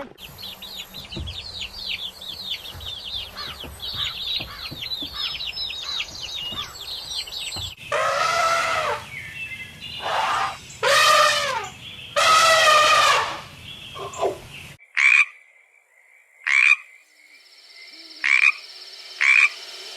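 Animal calls in three spliced clips. First a dense chorus of quick, high, falling chirps. Then, about eight seconds in, four loud drawn-out pitched calls of about a second each. Near the end come a few short high calls, roughly one a second.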